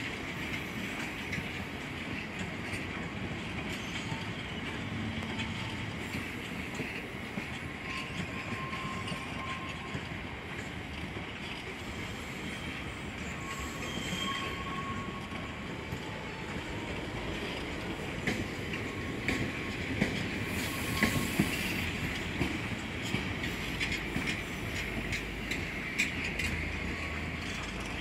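A train running through the station, its wheels squealing and clicking over the rail joints. The clicks come thicker and sharper in the last third.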